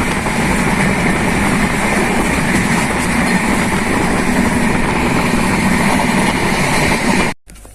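Passenger train running: a loud, steady rumble and rushing noise from the moving coach. It cuts off suddenly near the end.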